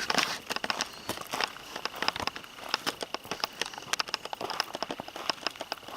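Footsteps walking along an old railway roadbed: a quick, uneven run of short scuffs and clicks underfoot, with a thin steady high tone behind them.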